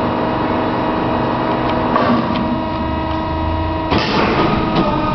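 Cosen SH-700DM bandsaw's machinery running with its blade not yet started: a steady hum with several tones and a few light clicks. A short burst of hiss comes about four seconds in.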